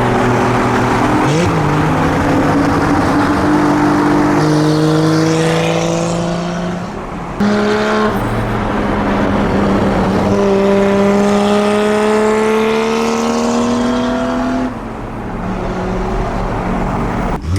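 Mk1 Lamborghini Gallardo's V10 engine, heard from inside the car, pulling hard through the gears: the note climbs steadily in pitch in long pulls, with a step at each gear change, and eases off near the end.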